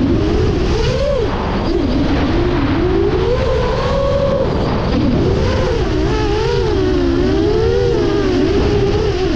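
10-inch FPV racing quadcopter's motors and propellers, a buzzing tone that rises and falls in pitch over and over as the throttle changes in freestyle flight, over a steady low rumble.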